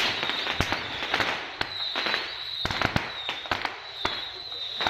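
Firecrackers going off in irregular single bangs and short clusters, some sharp and close, others fainter, over a steady high-pitched whine.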